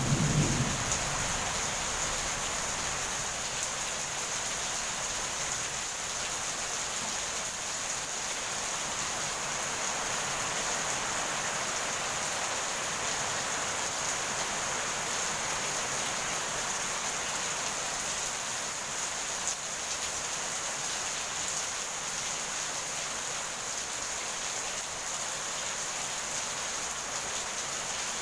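Steady heavy rain pouring down, with the last of a thunder rumble dying away about a second in.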